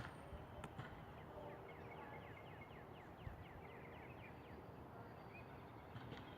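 Faint outdoor ambience with a bird trilling, a rapid run of short falling notes, about six a second, lasting roughly two and a half seconds and starting about a second and a half in.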